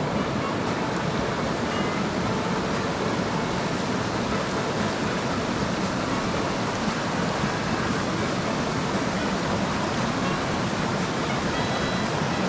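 Mountain stream rushing over rocks: a steady, even water noise with no breaks.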